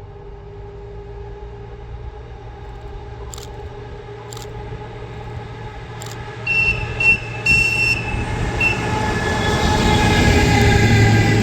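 A train approaching and growing steadily louder, with a few sharp clicks before the middle and then several brief high-pitched squeals from the wheels on the rails.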